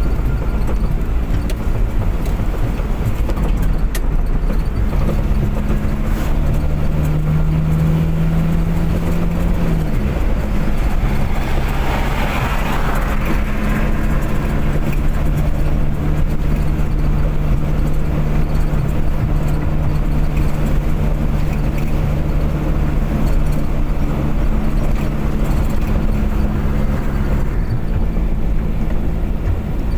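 Car engine and road noise while driving at speed: a steady engine hum whose pitch rises about five seconds in, drops back near ten seconds, then holds even. A brief rushing swell comes about twelve seconds in.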